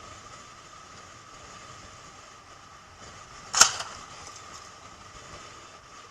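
Steady vehicle road noise, broken about three and a half seconds in by one sharp, loud bang with a short rattling tail: a vehicle collision impact.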